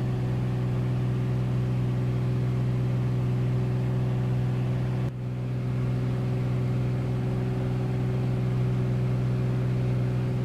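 Nanchang CJ-6's nine-cylinder radial engine running at a steady low drone, with a brief dip about five seconds in.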